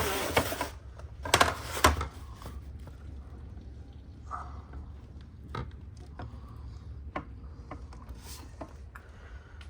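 A few sharp knocks and clicks, loudest about a second and a half in, then scattered fainter clicks over a steady low rumble.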